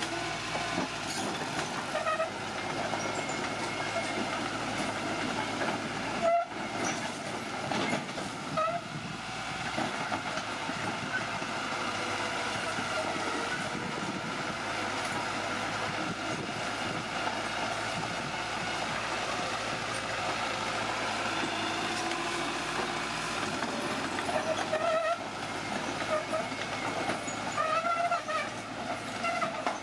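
Old bulldozer running under load, its steel tracks clattering and whining steadily, with a few short squeals near the end.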